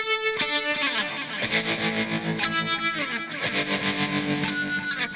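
Electric guitar played through overdrive: ringing, sustained chords and notes, with several slides down in pitch.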